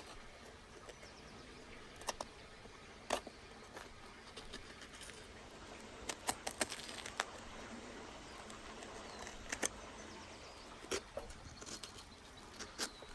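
Scattered soft clicks and knocks of a knife cutting meat away from a lamb carcass's ribs and bones, about eight in all at irregular intervals, over a faint steady background.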